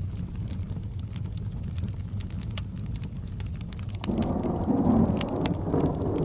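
Crackling fireplace with scattered sharp pops over a steady low rain rumble. About four seconds in, a roll of thunder comes in, loudest about a second later.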